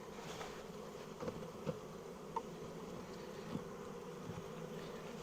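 A colony of honey bees buzzing around an opened hive: a steady hum, with a few faint light knocks.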